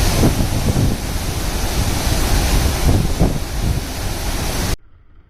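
Loud steady rushing noise with a heavy low rumble, cutting off suddenly near the end.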